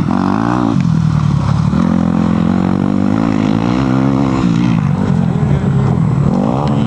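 Motocross dirt bike engines revving hard, the pitch climbing and dropping repeatedly as the throttle is opened and closed and gears change, with more than one bike heard at times.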